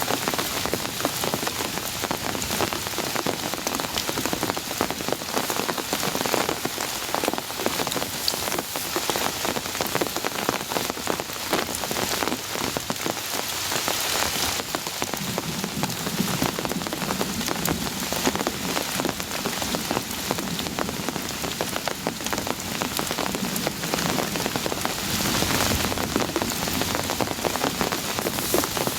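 Heavy rain falling steadily, a dense patter of drops hitting a surface close to the microphone.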